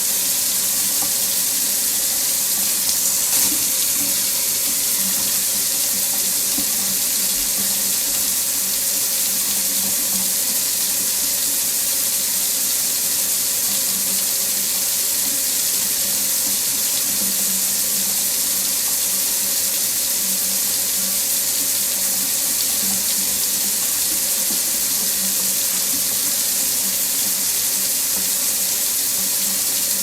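Water running steadily from a faucet into a sink, an even, unbroken hiss.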